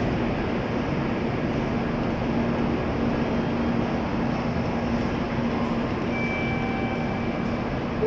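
Steady hum and noise of an N700-series Shinkansen standing at the platform, its onboard equipment running, with a continuous low hum tone throughout.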